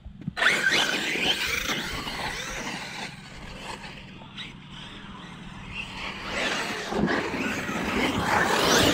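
Electric RC monster truck driven hard: its brushless motor whines up in pitch as it accelerates, with tyres churning. It starts suddenly just after the beginning, eases off in the middle, and builds again near the end.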